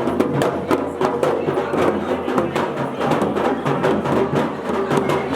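Dhol and damau drums played in a fast, steady rhythm of rapid strokes, with pitched music sounding underneath.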